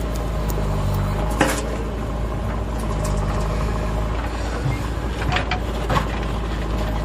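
A heavy vehicle's engine running steadily, with a few sharp knocks over it, the loudest about a second and a half in.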